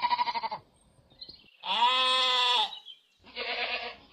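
Sheep bleating three times: a short wavering bleat, a longer steady bleat about two seconds in, and another wavering bleat near the end.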